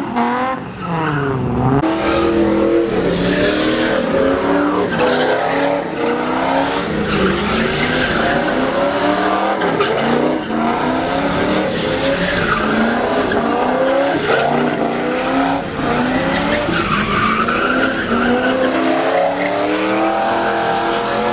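Modified pickup truck spinning its tires: the engine revs up and down again and again over continuous tire squeal.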